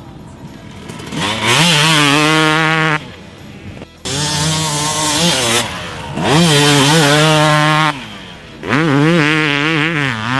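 The single-cylinder two-stroke engine of a 2018 Yamaha YZ250X dirt bike revving hard. It comes in about four bursts of a couple of seconds each. In each burst the pitch climbs and wavers under throttle, then cuts off sharply as the throttle closes.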